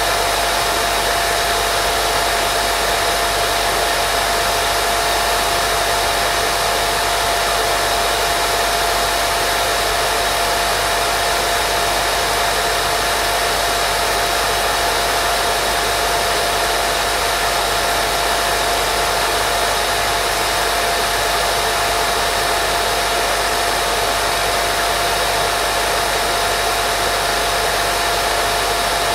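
Steady white noise for baby sleep, an even hiss with a faint steady hum tone running through it, unchanging throughout.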